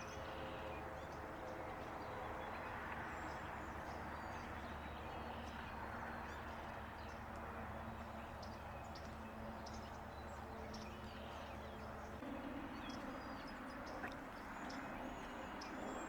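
Small birds giving short, high chirps and chips scattered throughout, over a steady low background rumble with a faint hum.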